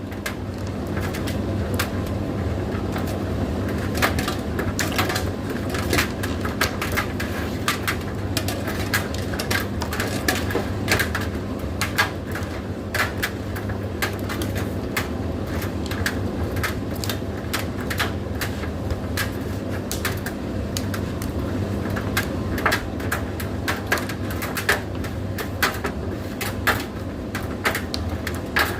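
Indesit IDC8T3 condenser tumble dryer running: a steady motor and fan hum with laundry tumbling in the drum, giving irregular clicks and knocks.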